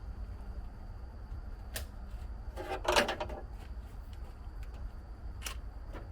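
Handling noises during vehicle work: a sharp click, then a short clattering rattle about three seconds in, and another click near the end, over a low steady rumble.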